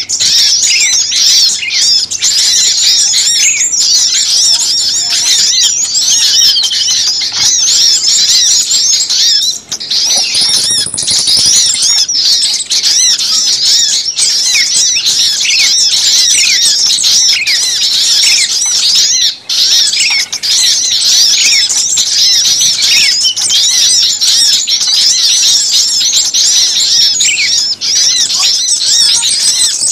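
A dense, loud chorus of small songbirds chattering and chirping without a break, many short calls overlapping at once, with a brief high trill about ten seconds in. It is a bird-lure recording of agitated small birds, used to draw other birds in.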